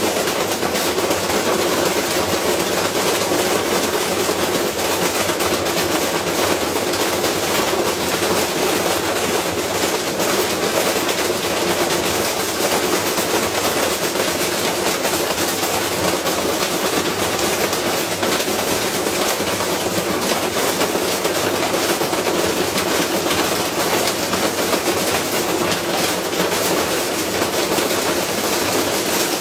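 Washing machine spinning with a heavy iron object loose in the drum: a loud, steady, rapid clattering and banging as the unbalanced load batters the drum and casing.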